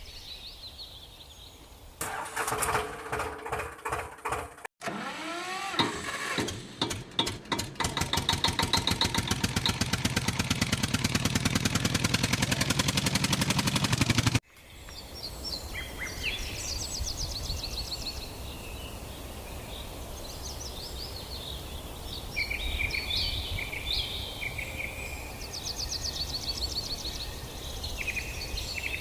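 An engine cranks and catches, then runs with rapid even firing strokes for about ten seconds before cutting off abruptly. Afterwards birds chirp over steady outdoor background noise.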